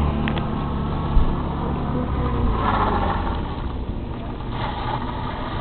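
Car engine running as a small car drives across a wet gravel lot, with a single sharp knock about a second in.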